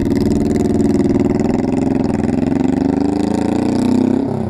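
An engine running steadily, its pitch wavering slightly and rising a little near the end.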